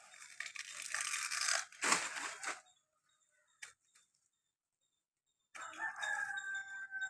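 A burst of rustling, crackling noise for about two and a half seconds with a sharp crack near its end. After a pause, a rooster crows once near the end.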